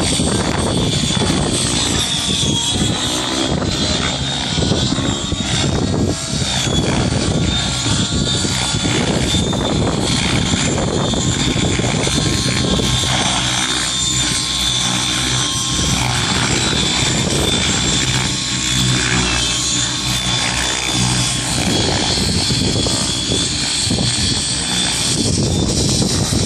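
Radio-controlled model helicopter flying, its motor giving a steady high whine over the rotor's dense noise, which thins out and swells back in the middle stretch.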